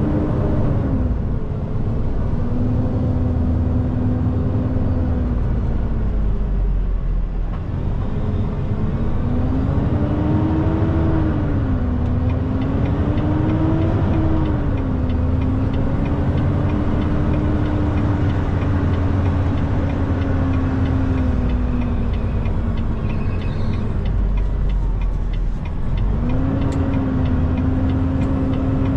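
Semi truck's diesel engine running, with a steady low rumble and a droning tone that rises and falls several times as it speeds up and eases off.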